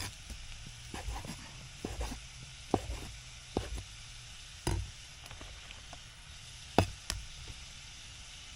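Knife knocking irregularly on a cutting board as raw chicken breast is cut, about eight sharp knocks, over the steady sizzle of mushrooms and onions frying in a pan.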